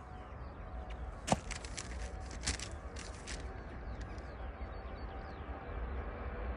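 A few sharp clicks and taps, the loudest about a second in, over a low steady rumble.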